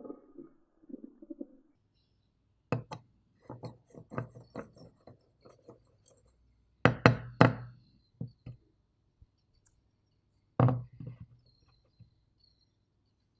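Kitchen handling sounds: a run of light knocks and taps on a hard surface, with two louder knocks about seven seconds in and another near eleven seconds.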